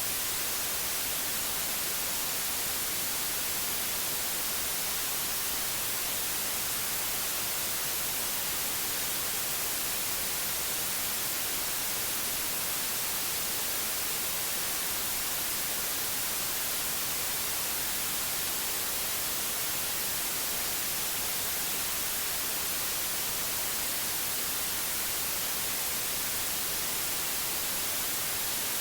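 Steady white noise: an even, unbroken hiss that is brightest in the highs, with no changes or events.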